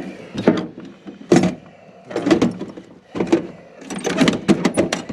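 An irregular series of sharp clicks and knocks, about a dozen, some in quick clusters around the middle and near the end, from gear being handled while a bobcat trap set is baited.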